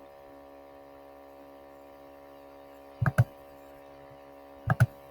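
Steady electrical mains hum, a comb of even tones, under two sharp double clicks: one about three seconds in and one near the end. The clicks fit a computer mouse being clicked while zooming in on an image.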